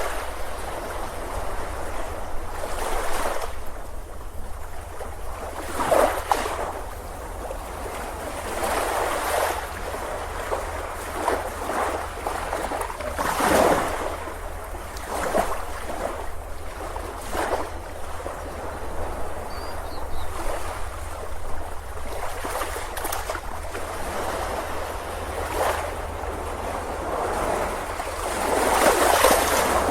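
Ocean surf breaking and washing up the beach, the noise swelling and falling away every few seconds with a steady low rumble underneath.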